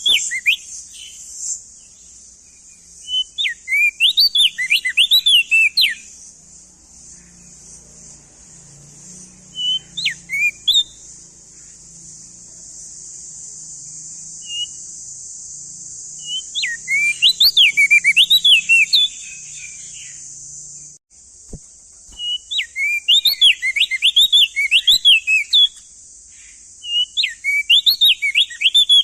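Male crested white-eye (opior jambul) singing loud, clear phrases of quick rising-and-falling whistled notes, each phrase about two to three seconds long, repeated about six times with pauses between.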